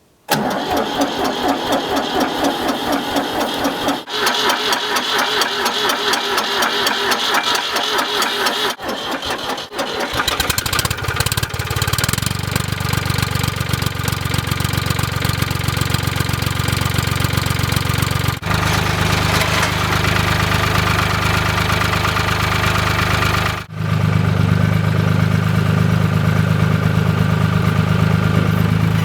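Ford 3000 tractor engine cranking on its starter in three bursts with short pauses between. It catches about ten seconds in and then runs steadily, a little louder in the last few seconds.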